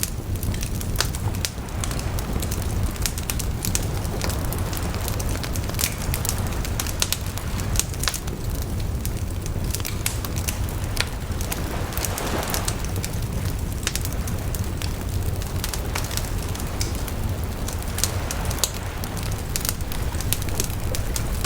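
Wood fire burning, with frequent sharp, irregular crackles and pops over a steady low rumble of flame, and a few soft rushing swells.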